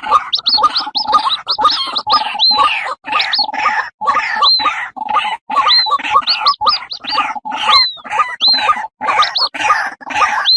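White-breasted waterhen female and her chicks calling together: a dense, unbroken run of rapid short notes overlapping with high whistled notes that rise and fall, repeated about every second. The chicks are calling to their mother.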